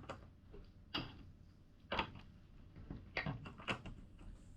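LEGO bricks clicking and tapping as they are handled and pressed together: a few single plastic clicks about a second apart, then a quick run of several clicks a little over three seconds in.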